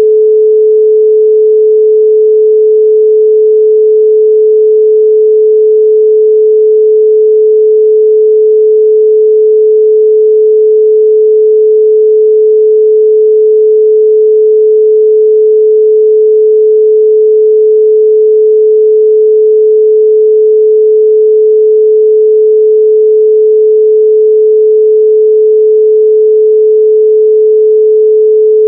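Electronically generated 432 Hz pure sine tone, held steady and loud without change.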